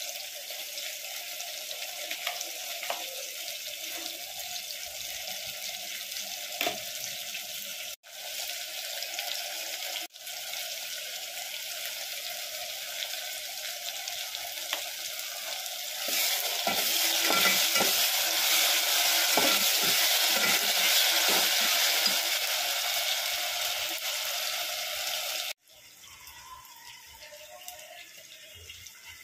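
Onions, tomatoes and ginger-garlic paste sizzling in hot oil in an aluminium pot, with a metal spatula stirring through them. The sizzle is steady, swells louder for several seconds past the middle, and cuts off suddenly a few times. It is quieter near the end.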